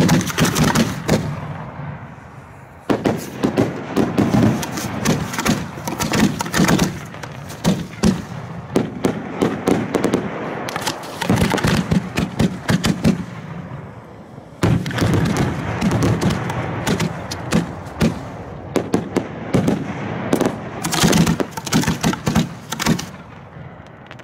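Fireworks going off in rapid succession: dense, fast strings of sharp reports and crackle in three long runs of several seconds each, with short lulls about 3 and 14.5 seconds in.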